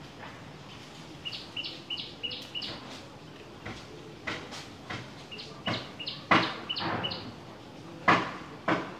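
A bird calling in two quick runs of about five short, high chirps, with sharp knocks in between; the loudest knocks come about six and eight seconds in.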